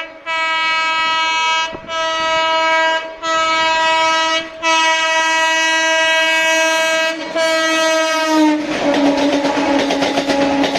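Electric local train's horn sounded in five blasts one after another, the last one long. About eight seconds in, its pitch drops as the train passes, and the wheels' clickety-clack rattles on to the end.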